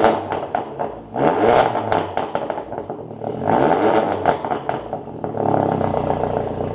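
Peugeot RCZ's turbocharged engine, with a downpipe and a straight-through exhaust, running loud and being revved in three throttle blips, with crackling pops from the exhaust.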